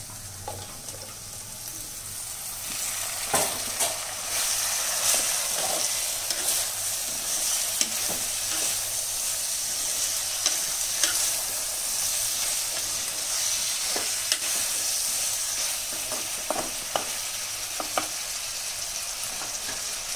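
Blanched cauliflower florets sizzling in hot oil with fried onions in a clay pot; the sizzle swells about two seconds in as they go in. A wooden spatula scrapes and knocks against the pot as they are stirred.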